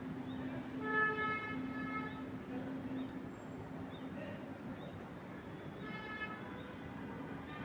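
A horn sounds twice, a held steady toot of just over a second and later a short one, over a steady low hum.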